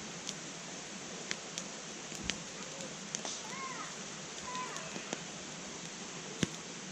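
Wood fire burning in a fire pit: a steady hiss with irregular sharp pops and cracks from the burning wood, the loudest about six seconds in.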